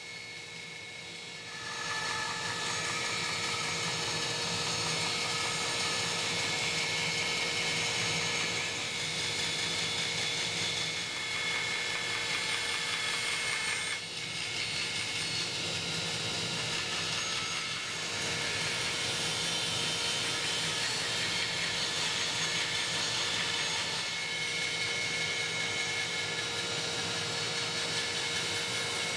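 Bandsaw cutting a hard oak blank. It runs steadily and gets louder about two seconds in as the blade goes into the wood, with a few short dips between cuts.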